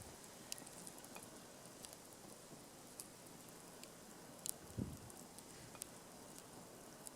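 Wood campfire crackling faintly, with scattered small pops and a soft low thump about five seconds in.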